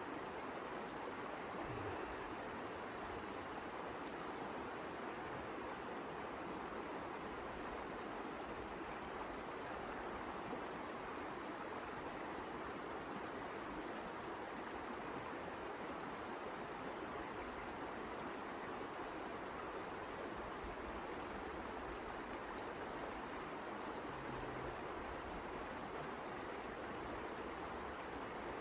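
Steady rushing noise of blizzard wind, even in loudness throughout.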